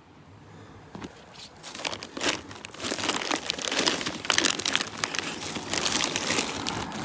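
Close rustling and crinkling, dense and irregular, starting about a second in and growing louder.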